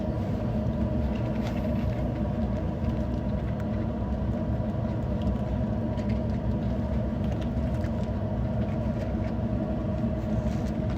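Boat engine running steadily, a continuous low rumble with a steady hum heard from aboard.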